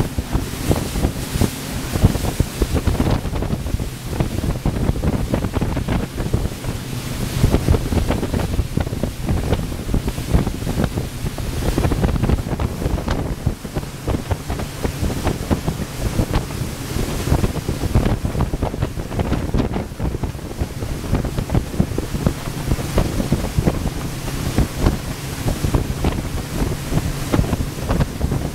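Wind buffeting the microphone aboard a Carver 3207 cabin cruiser under way, over the boat's steady low engine drone and rushing water.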